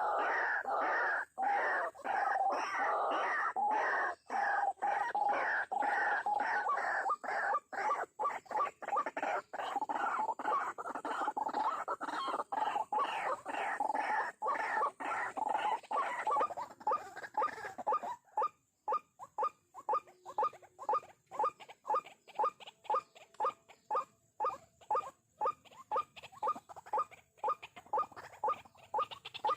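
White-breasted waterhen calling: a dense run of rapidly repeated calls, which from about two-thirds of the way through settles into a steady series of short notes, about two a second.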